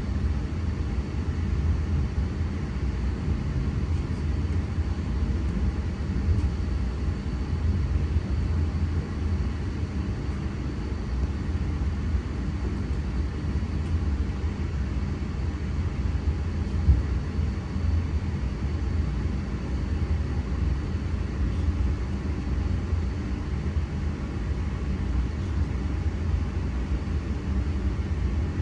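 Steady low rumble of a train in motion, with a faint thin whine above it, holding level throughout.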